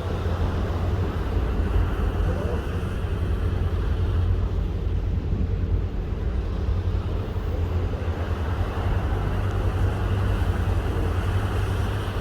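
Steady low rumble with a hiss over it, unbroken: wind and a ship under way at sea.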